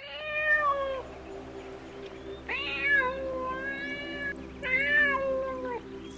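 Domestic cat meowing three times, long drawn-out meows with the second the longest, over a faint steady low drone.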